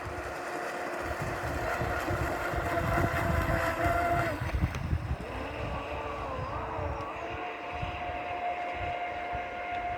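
Electric motors of a homemade radio-controlled boat whining as it runs on the water. The pitch steps down about four seconds in and wavers around the seventh second as the speed changes, over a low, uneven rumble.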